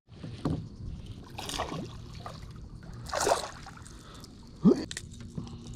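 Water splashing at the side of a kayak in several short splashes, with small knocks against the hull.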